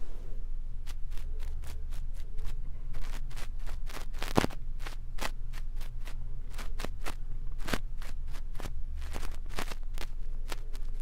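An ear-cleaning brush scratching against a microphone, giving irregular crackling clicks several times a second, the loudest about four seconds in, over a low steady hum.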